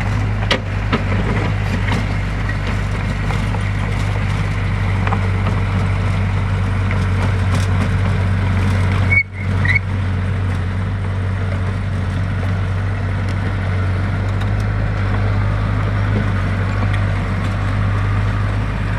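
Diesel engine of heavy construction machinery running steadily under load, with a deep hum. It breaks off for a moment about nine seconds in.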